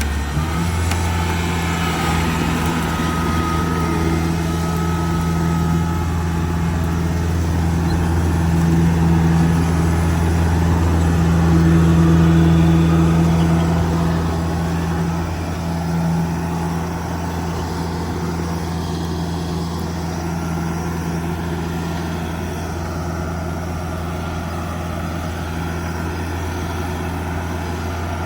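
Kubota DC70G Plus combine harvester's diesel engine running steadily. It picks up speed about half a second in, and the drone swells somewhat in the middle before settling back.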